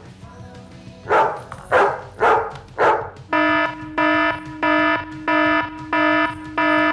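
A dog barks three times, then an alarm buzzer beeps in an even rhythm, about six buzzing beeps at under two a second, used as a comic alert effect.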